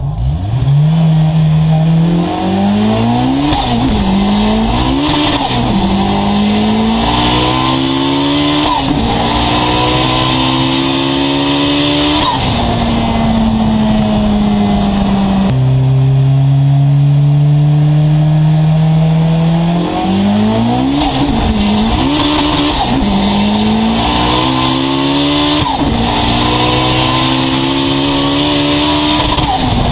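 Turbocharged VW Golf Mk2 engine pulling hard on 2.6 bar (37 psi) of boost, heard from inside the cabin. Its revs climb and drop back repeatedly in two runs, steadier for a few seconds around the middle, with a high hiss over the top while it pulls.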